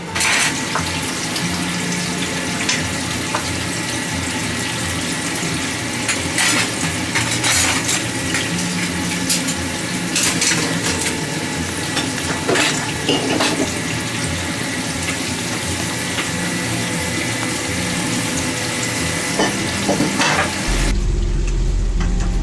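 Food sizzling and frying in a hot pan, with scattered metal clinks and scrapes of a utensil stirring against the pan. Shortly before the end the sizzling drops away and a steady low hum takes over.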